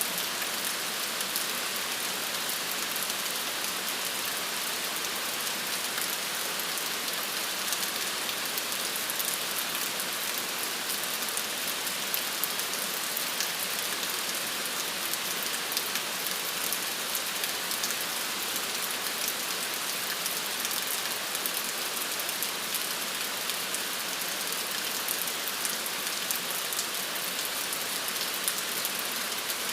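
Steady rain falling, an even hiss with many fine drop ticks mixed through it.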